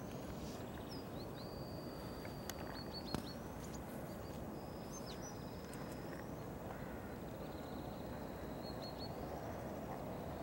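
Outdoor ambience: a steady low background noise with several thin, high bird calls, some drawn out and ending in quick short chirps.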